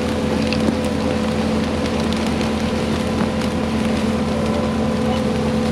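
Diesel engine of the machine pulling a water line plow, running steadily at an even pitch with a constant hum, and small scattered clicks and knocks over it.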